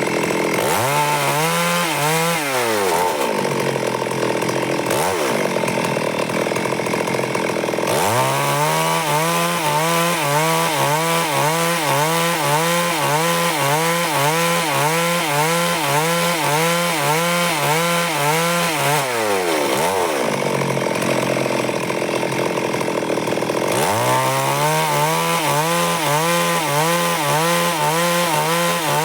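Stihl MS382 two-stroke chainsaw running at high speed while cutting wood, its engine note wavering under load. Several times the pitch sags and climbs back up.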